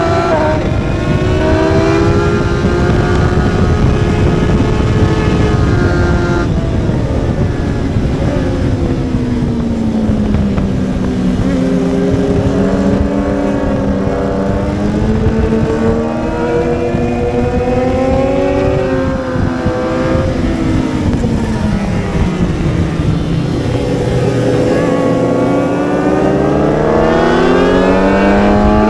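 1000 cc superbike engine at racing speed, its pitch dropping and climbing again several times as the bike slows for corners and accelerates out of them.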